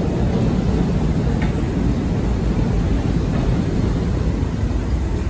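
Kintetsu commuter train running, a steady low rumble.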